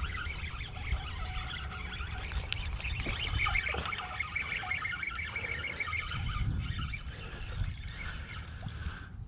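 Birds chirping and chattering, busiest a few seconds in, over a steady low rumble.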